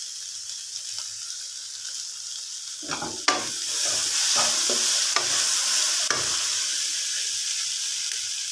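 Vegetables and shredded chicken sizzling in a wok. About three seconds in, a wooden spatula starts stirring, knocking and scraping against the pan for a few seconds, and the sizzle grows louder.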